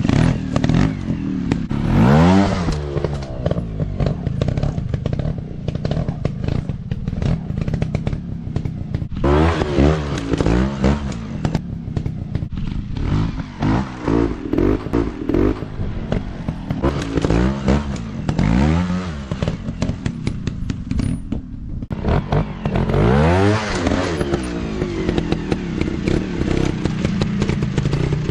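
Dirt bike engine revving up and down in repeated throttle blips, every second or two, with frequent clattering knocks.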